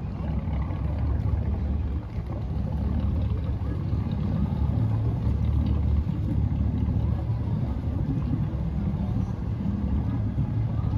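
A motorboat's engine running steadily, a continuous low rumble.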